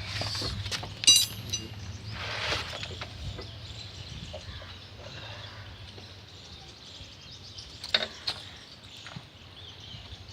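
A few sharp metallic clinks and knocks from tools and car parts being handled. One clink about a second in rings briefly, and two more come close together near the end, over steady outdoor background noise.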